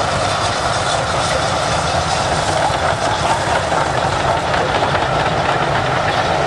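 A train running along the track: a loud, steady rumble of wheels on rail with no breaks.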